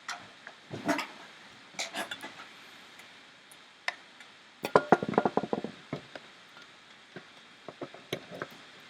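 Sharp clicks and light knocks of a plastic laptop casing and small tools being handled during reassembly, with a quick flurry of clicks about five seconds in.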